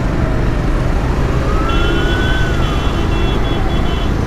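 Steady rumble of wind and road traffic while riding, with a siren wailing slowly up and then down behind it. A short run of high electronic beeps comes in the middle.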